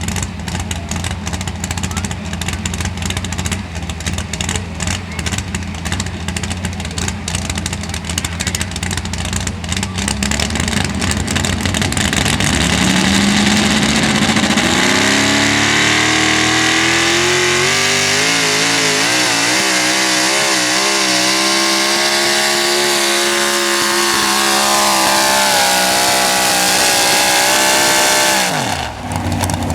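A 4x4 pulling truck's engine rumbles roughly at low revs, then climbs to high revs as the truck makes its pull. It holds there with a wavering pitch, then drops away suddenly near the end as the throttle is let off.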